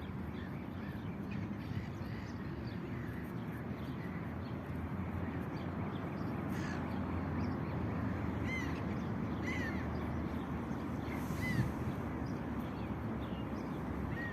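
Common starling giving short, harsh calls, a few clearer ones around the middle, over a steady low background rumble.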